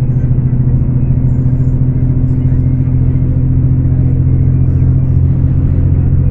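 Scania K410 coach's 13-litre six-cylinder diesel engine running steadily, a constant low drone with no change in pitch.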